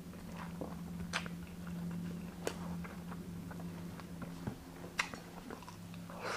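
Close-miked eating of grilled chicken inasal and rice by hand: chewing and mouth sounds, with a few sharp wet clicks spread through.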